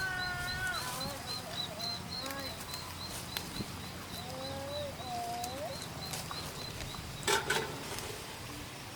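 Outdoor animal sounds: a high chirping repeats about three times a second throughout, and a few sliding, rising-and-falling cries come near the start and again around the middle. A short noisy rustle or knock comes near the end.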